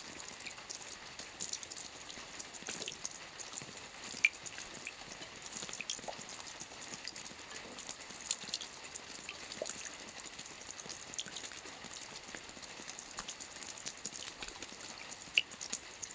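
Steady rain with many separate drops ticking and dripping over an even hiss; two drops land louder, one about four seconds in and one near the end.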